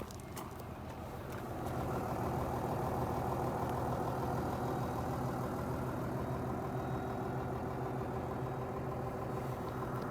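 Mitsubishi 6D16 turbo-diesel inline-six engine of an Aero Midi bus running steadily at idle. It gets louder about a second and a half in and then holds even.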